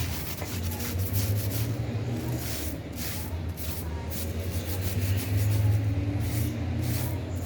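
Repeated rasping strokes of a brush scrubbing plastic fan parts, over a steady low rumble.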